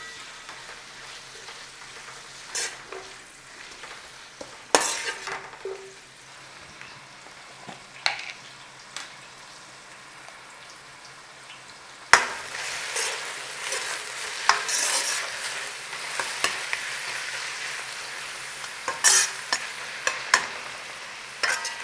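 Onions sizzling as they fry in hot ghee and oil in a pan, stirred with a utensil that knocks against the pan now and then. The sizzle grows louder about halfway through.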